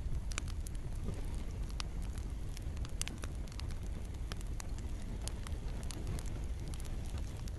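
Campfire crackling and popping in irregular sharp snaps over a steady low rumble, with light rain falling.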